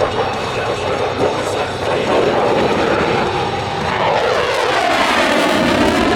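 F/A-18 Super Hornet jet engines running loud under power as the jet flies past. About four seconds in the sound takes on a sweeping, phasing whoosh as the jet passes closest.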